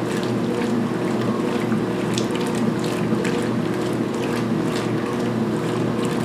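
2016 Speed Queen belt-drive top-load washer agitating a load of towels in the main wash at high speed. A steady motor and transmission hum runs under water sloshing with the agitator's strokes.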